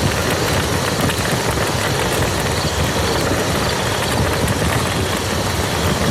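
Steady rain falling on a muddy field, an unbroken patter of drops with a low, dense rumble underneath.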